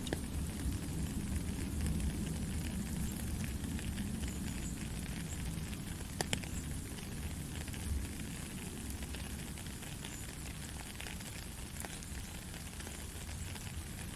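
Steady gentle rain, a constant hiss with many small drops pattering and ticking, one sharper drop click about six seconds in, over a low rumble.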